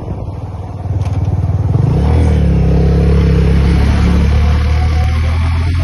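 Motorcycle engine pulling away. It grows louder from about one to two seconds in, then runs at a steady pitch under way.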